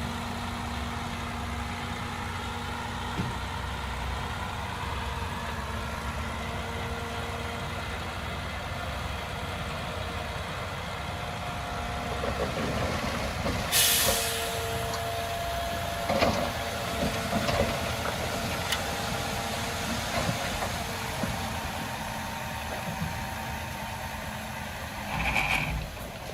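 Heavy diesel construction machinery running steadily, with a short burst of hiss about halfway through and a few knocks after it.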